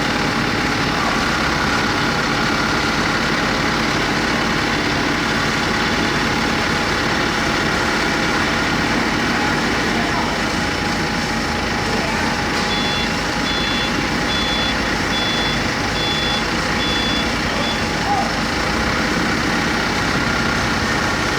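Steady industrial machinery noise from an aluminium rod casting-and-rolling line running, with several constant hums. A little past the middle comes a run of about six short, high electronic beeps, evenly spaced about two-thirds of a second apart.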